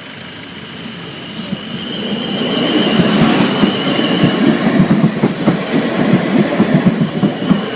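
Class 450 Desiro electric multiple unit crossing the level crossing. Its sound builds over the first few seconds, then its wheels clatter in rapid knocks over the rail joints, with a high whine a few seconds in.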